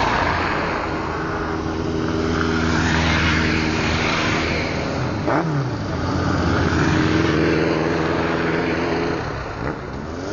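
A stream of motorcycles riding past, their engines running in an overlapping drone. About five seconds in, one passes close, its pitch dropping as it goes by.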